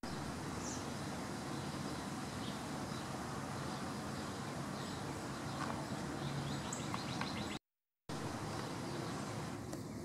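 Faint, scattered bird chirps over a steady background noise, with the sound cutting to total silence for half a second about three-quarters of the way through.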